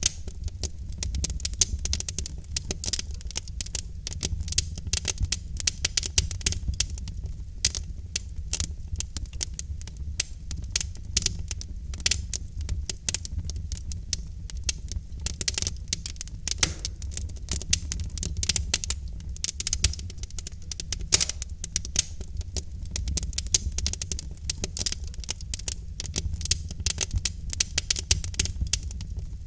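Logs burning in a fireplace, crackling and popping irregularly with many sharp snaps over a steady low rumble of the flames.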